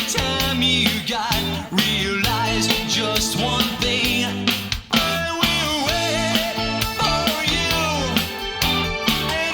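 Rock band recording playing: steady bass and chords under regular drum hits, with a wavering, bending lead melody above.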